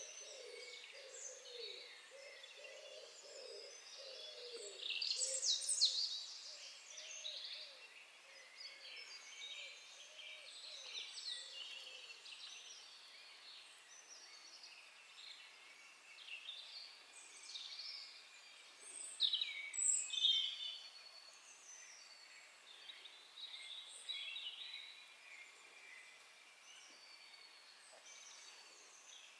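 Several small wild birds singing and chirping in high, short phrases, loudest about five seconds in and again near twenty seconds, with a low repeated call from another bird in the first several seconds.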